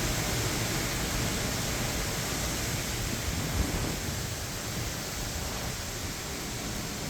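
Hurricane wind and heavy rain: a steady rain hiss with gusts buffeting the microphone, easing slightly about four seconds in.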